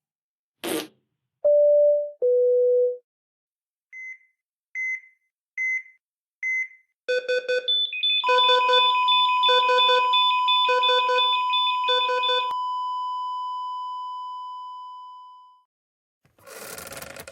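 A run of separate short sound effects: a click, two low beeps with the second one lower, four short high beeps evenly spaced, then a fast, repeating telephone-like ringing that fades out slowly, and a brief burst of noise near the end.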